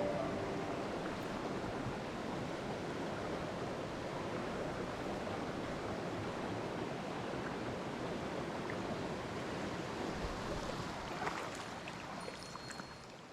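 Steady rush of a mountain stream's flowing water, fading out near the end.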